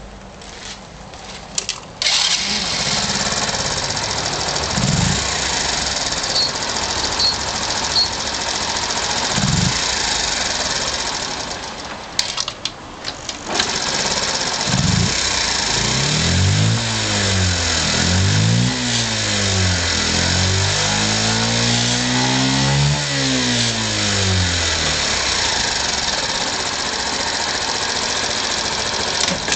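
Honda Super Cub 50 Custom's fuel-injected 49 cc single-cylinder four-stroke engine starting about two seconds in, after a few clicks, and idling. It falls quiet for about a second and a half around the middle, then runs again, is revved up and down several times, and settles back to a steady idle.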